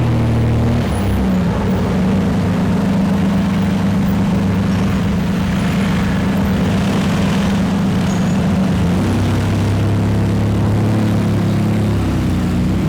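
Lamborghini engine running at low, fairly steady revs as the car moves off slowly, its note shifting slightly about a second in and again around nine seconds in.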